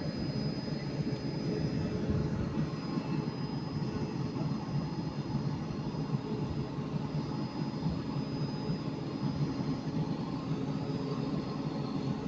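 Trains standing at station platforms: a steady hum of running train equipment with faint high, steady whining tones, unchanging throughout.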